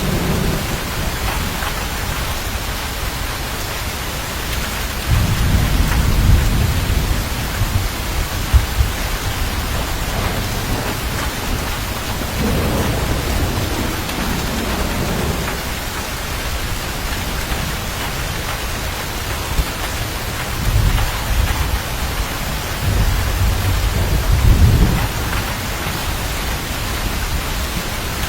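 Steady heavy rain hissing, with thunder rolling low three times: about a fifth of the way in, around the middle, and in the last third.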